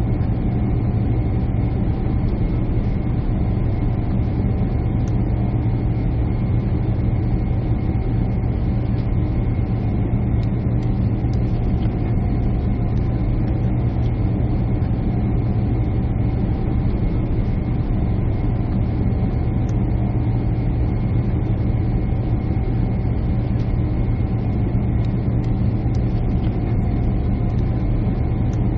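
Steady jet airliner cabin noise: a constant low engine drone and air rush heard from inside the cabin, with a few faint steady tones above it.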